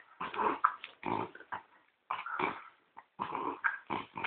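French bulldog snorting and grunting while chewing a biscuit, in a quick, irregular series of short bursts.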